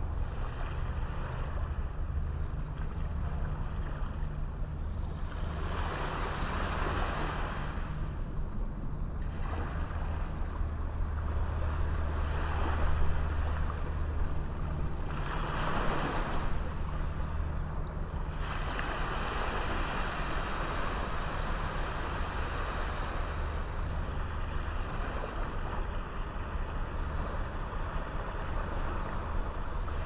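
Small sea waves breaking and washing up the beach in several swells, over a steady low rumble.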